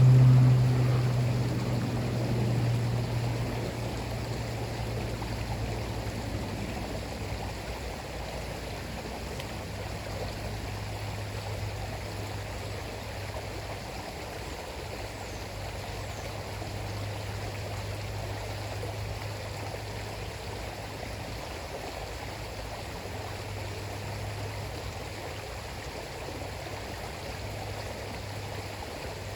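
River water flowing steadily. A low motor hum is loudest at the start and fades away over the first few seconds.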